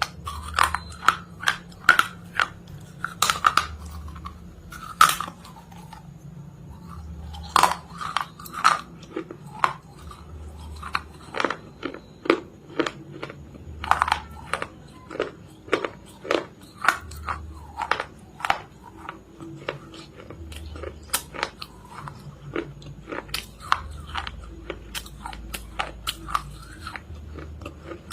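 Close-up crunching as a person bites and chews something hard and brittle, with many sharp, irregular crunches several times a second.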